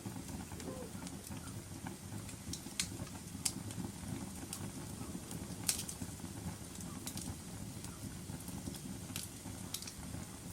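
Wood fire burning in a fireplace: a steady low rumble of flames with irregular sharp crackles and pops every second or so, the loudest a little past halfway.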